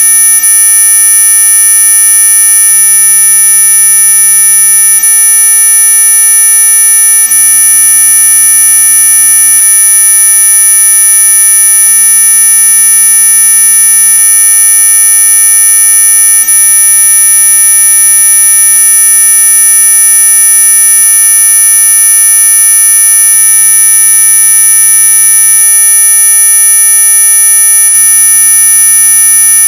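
Electronic anti-mosquito repellent tone: a loud, steady, high-pitched electronic whine made of many pitches sounding together, unchanging throughout.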